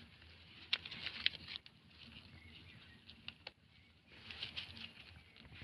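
Faint rustling and crackling with a few sharp clicks, typical of plastic litter being handled and dropped into a collecting bag.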